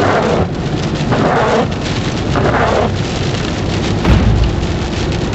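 Tropical-storm wind and rain, a dense rushing noise that swells three times in the first three seconds as gusts come through. A low boom about four seconds in.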